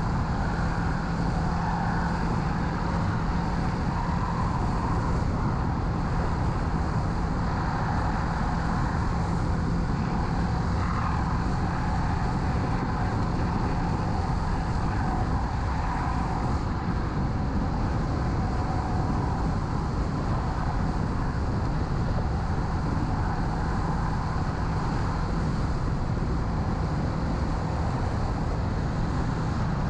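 Kawasaki Z650 parallel-twin engine running steadily while riding, mixed with wind rush over a helmet-mounted microphone. The engine hum drops away for a couple of seconds about halfway through, then returns.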